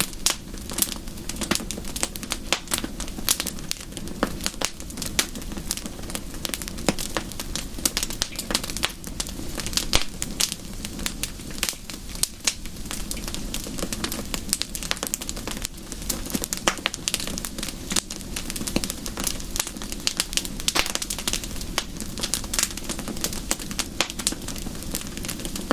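Wood fire burning in a fireplace, crackling and popping with many irregular sharp snaps over a low steady rumble.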